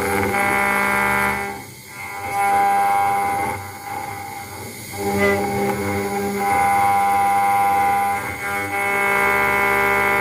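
CNC router engraving machine running while engraving a brass plate: its stepper motors give steady whining tones that change pitch every second or two as the moves change, with brief dips between moves.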